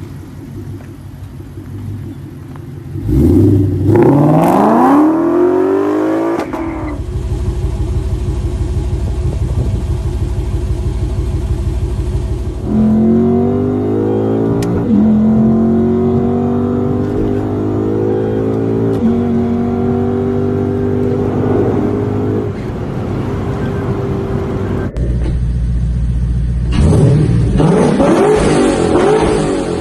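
Lexus IS F's 5.0-litre V8 in several cut-together clips: idling, a sharp rev about three seconds in, then accelerating through the gears with the pitch climbing and dropping back at each upshift, and another rev near the end.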